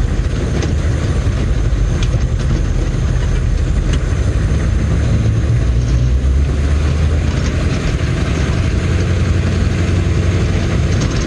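1990 M998 Humvee's diesel engine and drivetrain running at low speed, heard inside the cab as a steady low drone that swells for a couple of seconds around the middle, with a few faint clicks.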